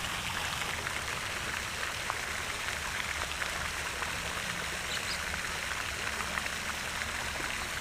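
A steady, even patter of falling water with many tiny ticks, sounding like light rain.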